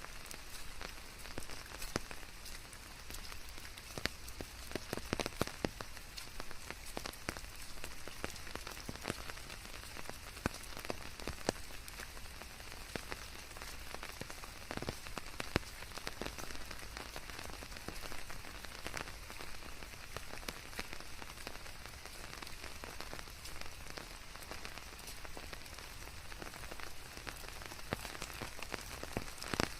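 Steady rain falling, a dense hiss with many separate drops ticking on surfaces, laid over white noise.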